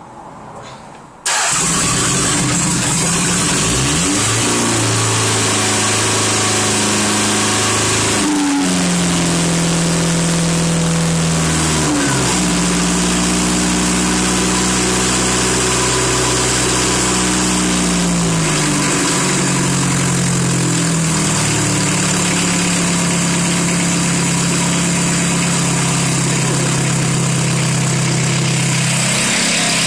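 Citroën BX 1.9D's four-cylinder diesel engine starting from cold about a second in, on its first start after a rebuild. It then runs with its speed stepping up and down several times before settling to a steady idle.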